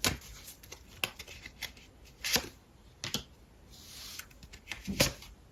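Tarot cards being handled and laid down: a few short slaps and rustles of card on card, roughly a second apart.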